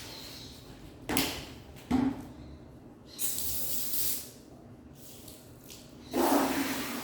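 Water running from a tap in short spells, with two knocks about a second apart before it. The rushing noise comes on briefly around the middle and again, louder, near the end.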